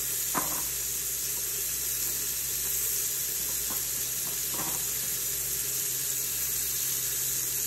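Onions and pimento peppers sizzling in hot oil in an Instant Pot's steel inner pot, a steady high hiss. A few light clicks of a spatula against the pot as they are stirred.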